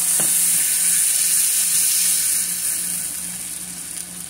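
Blended tomatoes sizzling loudly in hot oil with fried onions in a frying pan as they are stirred with a spatula; the sizzle eases off near the end.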